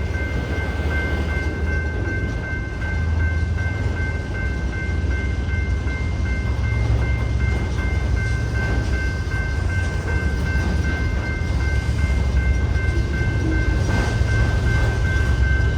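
Safetran grade-crossing bell ringing continuously as a steady high ring, over the low, continuous rumble of a freight train occupying the crossing.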